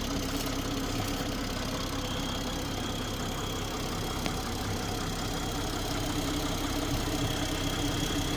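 2021 BMW 7 Series engine idling steadily.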